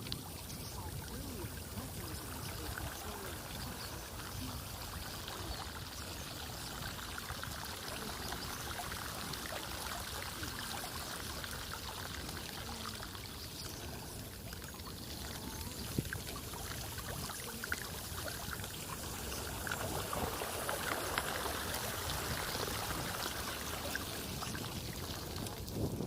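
Floodwater running and trickling steadily, growing a little louder near the end.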